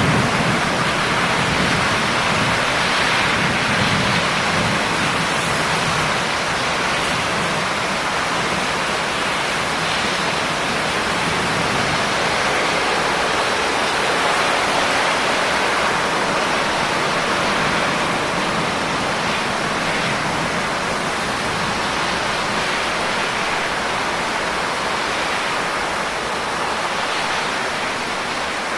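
Steady rain falling, an even hiss of rainfall with no break or distinct drops standing out.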